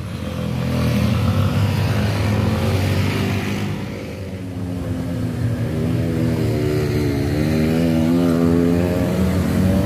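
Motorcycle engine pulling hard under heavy throttle on a steep uphill climb. It eases off briefly about four seconds in, then builds again, its pitch rising and wavering.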